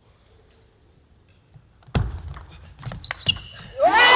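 A short table tennis exchange: a sharp knock with a low thud about two seconds in, then a few quick clicks of the ball off bat and table. Near the end a loud shout and crowd cheering rise up as the point is won.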